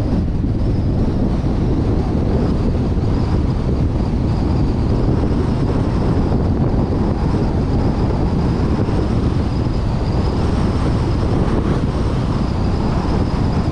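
Steady wind rush and road noise of a car driving, buffeting a suction-mounted action camera's microphone, with a faint high wavering whine.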